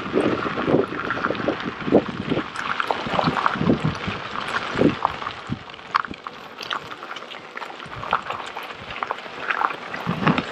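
Irregular crackling and rattling of an electric unicycle ridden over a rough trail, a little quieter in the second half.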